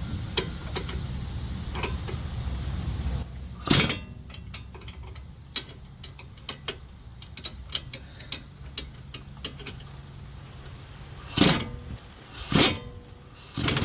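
An air hose hisses steadily and stops about three seconds in. A string of small metal clicks follows as tools are handled, and near the end come two short bursts from an air impact wrench, which loosen a suspension bolt.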